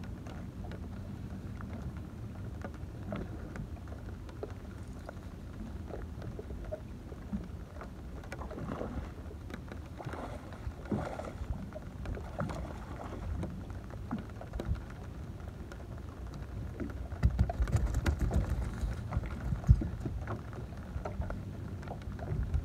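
Rain and wind noise around a small open fishing boat, a steady low rumble dotted with small patters and knocks. From about three quarters of the way through, heavier rumbling and bumps hit the microphone, with one sharp knock near the end, while a hooked fish is brought aboard.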